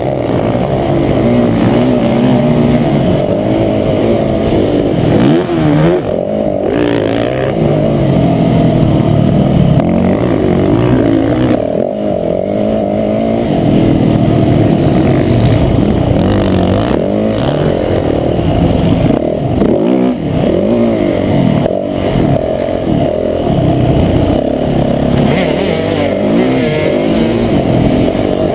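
Motocross bike engine revving hard and falling back over and over as it is ridden round the track, with brief breaks in the drive as the throttle is shut or gears change, heard up close from the rider's camera.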